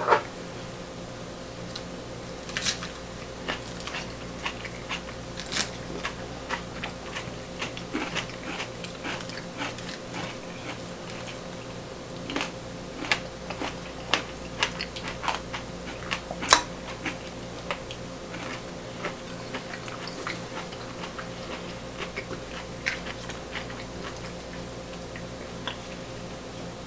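Eating: chewing and crunching with many small clicks and taps of utensils against dishes, over a steady low hum.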